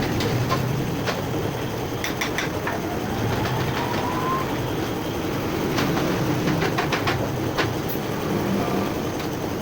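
A running vehicle's steady rumble, with scattered sharp clicks and knocks and a faint rising whine about three to four seconds in.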